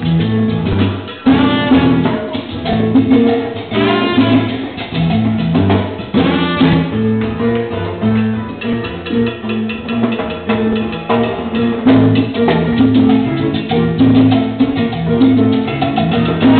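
Salsa band playing an instrumental passage: brass section stabs over a steady bass line and percussion.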